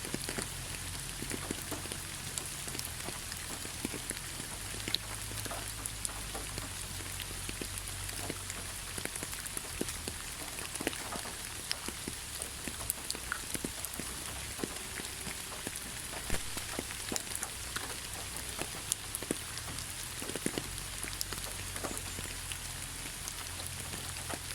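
Heavy rain falling steadily, with many individual drops ticking sharply against a surface over a constant hiss and a low rumble.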